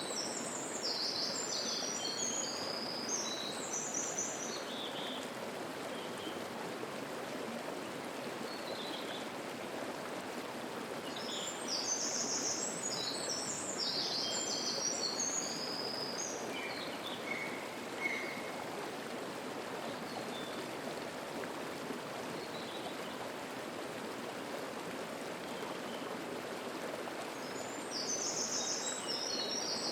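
Steady rush of a waterfall on a mountain river. A songbird sings phrases of quick, high notes over it: near the start, again in the middle, and near the end, with a few scattered fainter notes in between.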